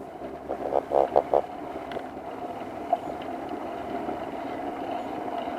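Razor electric dirt bike running steadily, its motor drive giving a continuous drone. About a second in, it is broken by three or four short, loud, pitched blasts.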